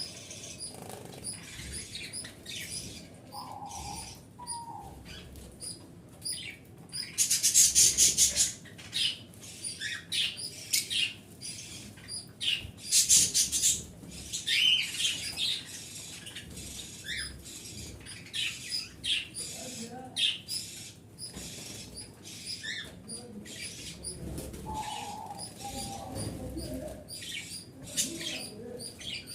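Small pet birds chirping, with many short high chirps throughout. Two loud flurries of rapid chatter come about seven and thirteen seconds in, and a few lower calls are mixed among them.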